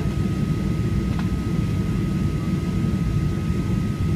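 Boeing 737-800 cabin noise: the steady low rumble of its CFM56 jet engines and airflow, with a thin steady whine.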